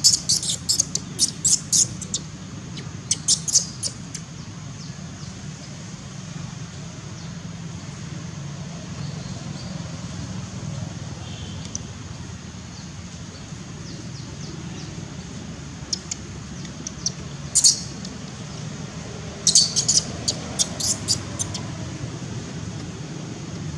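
Birds chirping in quick runs of short, high-pitched chirps: a few at the start, again about three seconds in, and a longer run near the end, over a steady low hum.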